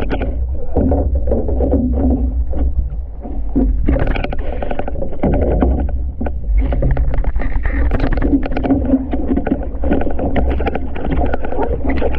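Water splashing and sloshing against an outrigger canoe as it is capsized and righted, in many short irregular strokes over a steady low rumble.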